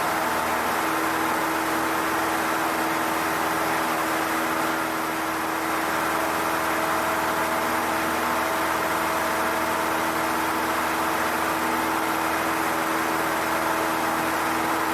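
Steady drone of a Cessna 152's four-cylinder Lycoming engine and propeller in flight, heard from inside the cockpit, with several steady tones over a noisy wash.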